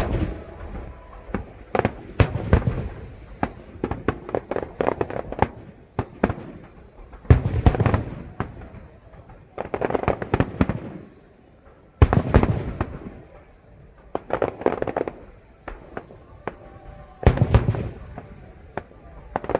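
Aerial fireworks bursting overhead in a continuous barrage: heavy deep booms every few seconds, the biggest about seven, ten, twelve and seventeen seconds in, with many sharper bangs and crackles between them.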